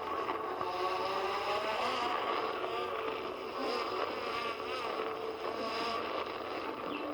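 Quadcopter drone's propellers whirring steadily, their pitch wavering up and down as it flies.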